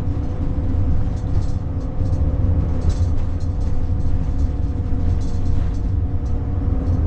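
Steady low rumble of a vehicle on the move, engine and road noise heard from inside the cab, with a faint steady whine above it.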